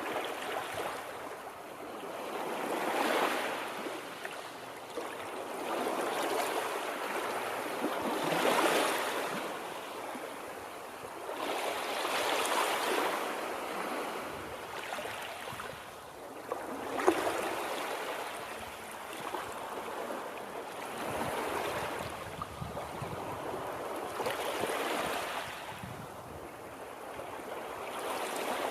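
Water rushing steadily, swelling and easing every few seconds.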